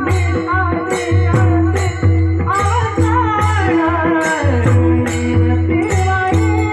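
Kirtan devotional singing: a male voice carries a wavering, ornamented melody over a steady drone, with a regular drum beat and sharp strikes of small cymbals keeping time.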